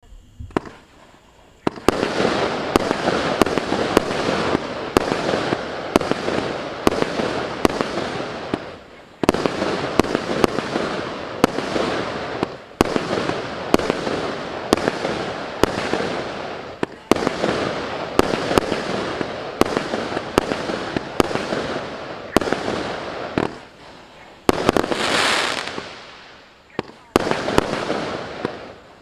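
80-shot, 0.8-inch firework cake (MC122 'More Colorful') firing shot after shot, with sharp launch thumps about twice a second and dense bursting and crackling between them. It starts about two seconds in and dips briefly a few times, and near the end a hissing swell rises and falls.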